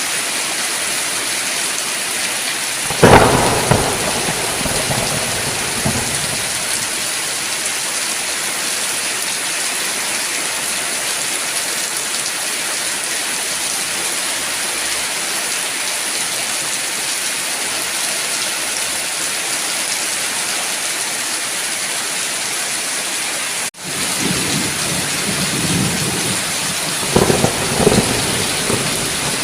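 Steady heavy rain hissing, with thunder: a sharp crack about three seconds in that rumbles away over a few seconds, and another rumble of thunder near the end.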